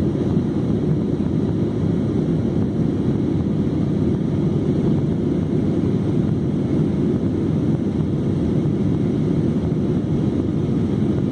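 Steady low rush of jet airliner cabin noise in flight, engines and airflow heard from inside the cabin.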